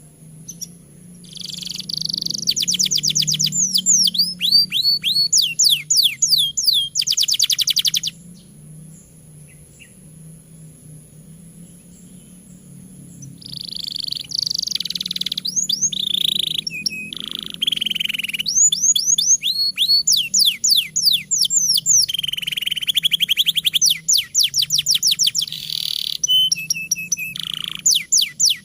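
Domestic canary singing vigorously: rapid trills of repeated sweeping notes and rolls. It sings from about a second in for roughly seven seconds, pauses for about five, then sings again from about 13 seconds in nearly to the end, over a faint steady low hum.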